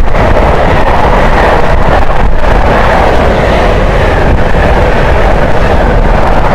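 A train passing close by at speed: a loud, steady rumble and rush with a few faint knocks, wind buffeting the microphone.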